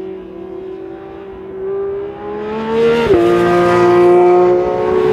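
Porsche 911 GT3's 4.0-litre naturally aspirated flat-six accelerating, its revs climbing. About three seconds in the pitch drops sharply at an upshift, then climbs again, louder.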